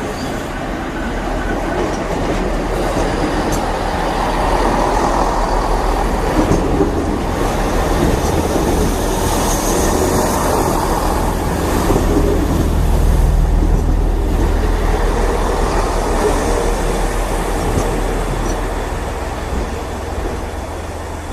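Diesel multiple unit train running into the platform: a steady low engine drone under wheel and rail noise. It grows louder to a peak a little past the middle, then eases off as the train slows.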